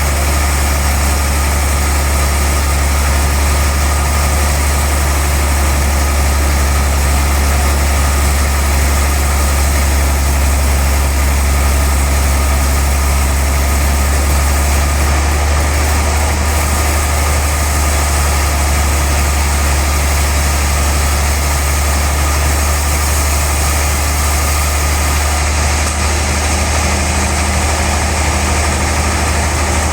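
Sawmill machinery running steadily: a constant low engine hum that holds one pitch throughout.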